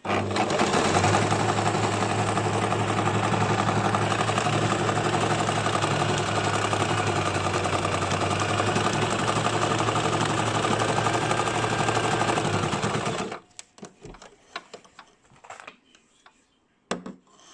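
Domestic electric sewing machine stitching at a steady speed with a fast, even needle rhythm, then stopping abruptly about thirteen seconds in. A few light clicks and handling knocks follow.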